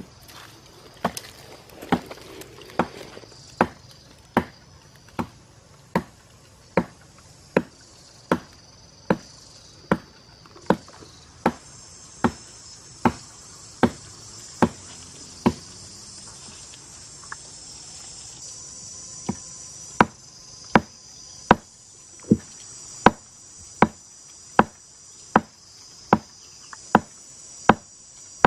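Steady chopping: sharp strikes about one every 0.8 seconds, stopping for about four seconds past the middle and then going on. A steady high-pitched insect chorus runs under it.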